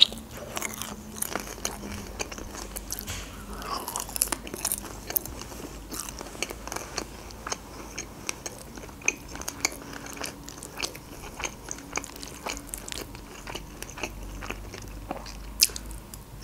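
Close-miked chewing of lasagna: a run of short, irregular wet mouth clicks and smacks as a forkful is bitten off and chewed.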